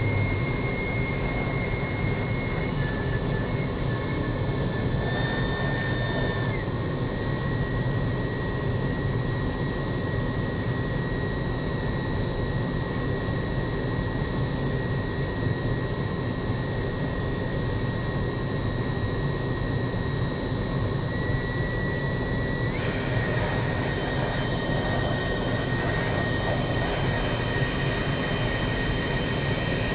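Brazing torch flame burning with a steady, even rushing noise while a slit in a burst chiller coil pipe is brazed shut.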